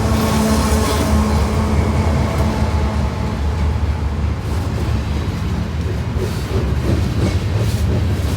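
Diesel freight locomotive passing close by, its engine a deep steady drone under the rumble of the train, with faint clicks of wheels over the rail joints in the second half.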